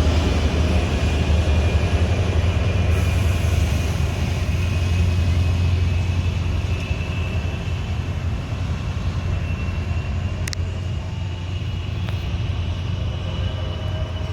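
A train passing, a steady low rumble slowly fading, with a faint high steel-wheel squeal above it and a short click about ten seconds in.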